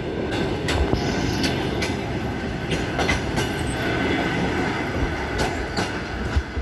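Long-distance passenger train pulling out at low speed, its wheels rolling over rail joints and switches with uneven sharp clicks and clacks, and a faint high wheel squeal in the middle.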